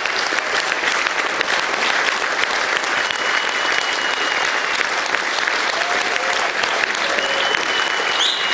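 Audience applauding steadily at the end of a live song, with a few held high tones among the clapping.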